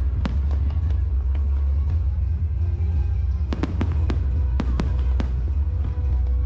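Aerial fireworks bursting in a display, with sharp cracks at the start and a quick cluster of them in the second half, over a continuous low rumble, while music plays.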